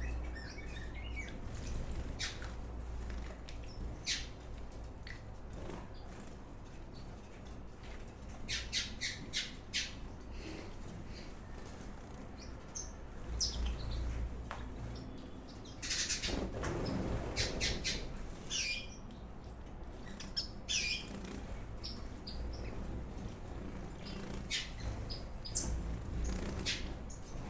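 Mixed ornamental birds in an aviary calling, with scattered short squawks and chirps throughout and a busier flurry of calls about two-thirds of the way through.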